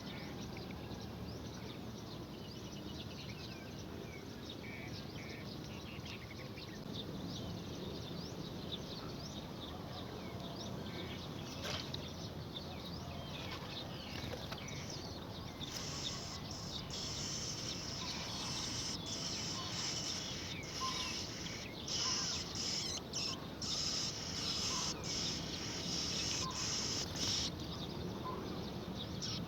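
Small birds chirping over steady outdoor background noise. From about halfway through to near the end, a louder high-pitched sound runs in short stretches with brief gaps.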